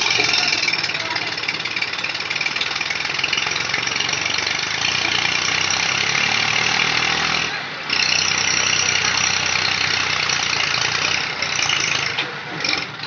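Tractor engine running loud and steady, with voices over it. The sound dips briefly a little past halfway, then comes back at the same level.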